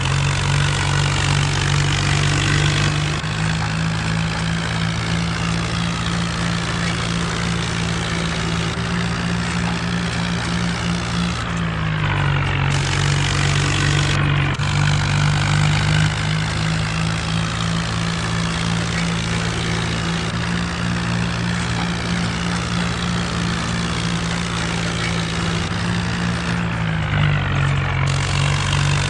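Mahindra Arjun diesel tractor engine running steadily, working a rotavator. Its note shifts slightly up and down a few times.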